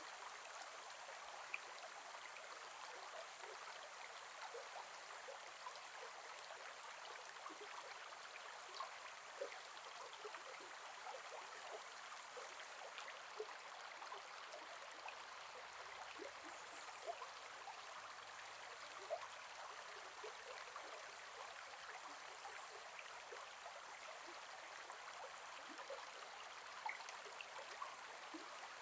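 Gentle forest river flowing: a steady rush of water with small splashes and plinks scattered through it.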